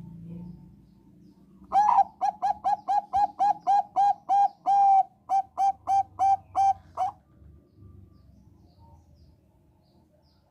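Thai-strain ('Bangkok') zebra dove cooing: a run of about twenty short, clear notes at a steady pitch, about four a second for some five seconds, with one longer held note midway through.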